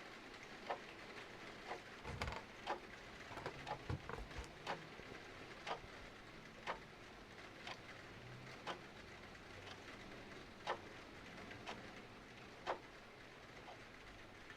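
A clock ticking about once a second over a steady hiss of rain. Between about two and four and a half seconds in, a few irregular crackles and two soft thumps from a fireplace fire are mixed in.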